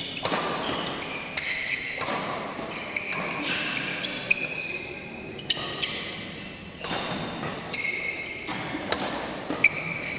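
Badminton doubles rally in a hall: sharp racket strikes on the shuttlecock about once a second or so, with sneakers squeaking on the court between hits and a murmur of spectators.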